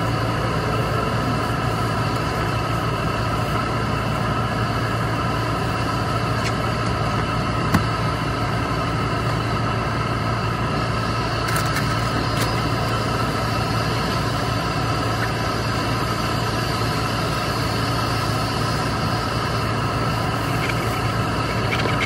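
A car's engine idling steadily, heard from inside the cabin as an even hum and drone. A single sharp knock about eight seconds in.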